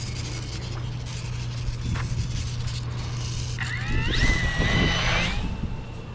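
Electric motor and propeller of a micro E-flite UMX P-51 Mustang RC plane: about three and a half seconds in, a whine climbs sharply in pitch as the throttle opens, holds high for about a second, then cuts off, over a steady low hum.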